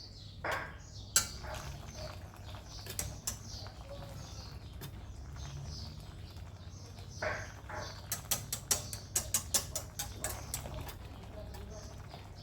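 A series of light clicks and taps, with a quick run of them about two-thirds of the way through, over a low steady hum and faint high chirps like small birds in the background.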